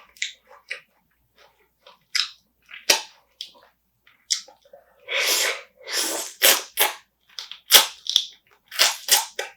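Close-miked eating of spicy marinated raw crab: chewing and crunching in quick, irregular sharp clicks, with a couple of longer noisy bursts a little past halfway.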